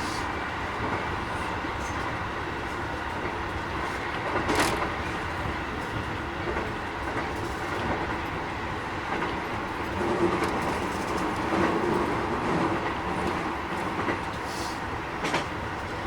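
Keikyu 1000 series electric train running at speed: steady wheel and running noise with a faint steady tone, and two sharp rail-joint clacks, about four and a half seconds and fifteen seconds in. This set is one the recordist finds a little noisier than others of its class.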